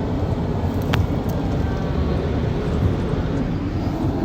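Steady low rumble of a vehicle running, with a single sharp click about a second in.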